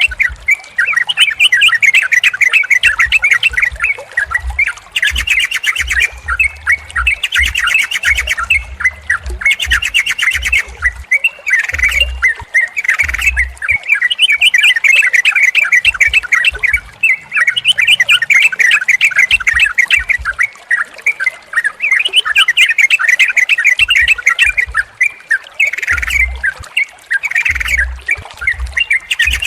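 Yellow-vented bulbuls (trucukan) chattering and calling continuously, with several birds' rapid calls overlapping.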